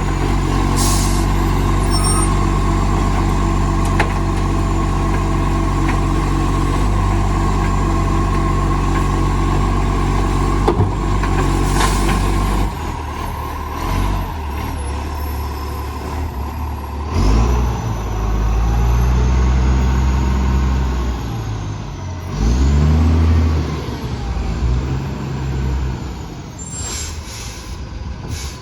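Garbage truck's diesel engine running loud with a massive exhaust leak, holding steady for about twelve seconds, then dropping back and revving up twice. A few short hisses come through along the way.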